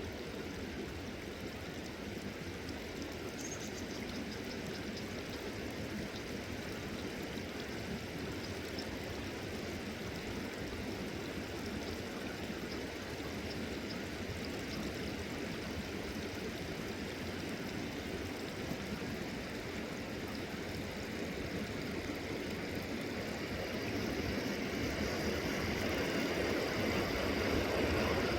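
Fast-flowing river water rushing steadily, growing louder near the end.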